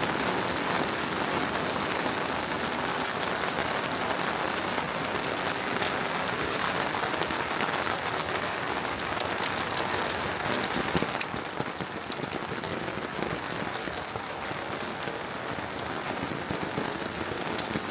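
Steady rain falling, with scattered close drop ticks; it eases slightly about eleven seconds in.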